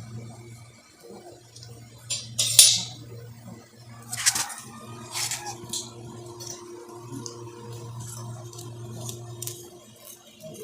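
Handling noises while a loose air-hose fitting is bound with tape: small clicks and clinks, with two louder rasping sounds about two and a half and four seconds in, the second falling in pitch. A steady low hum runs underneath.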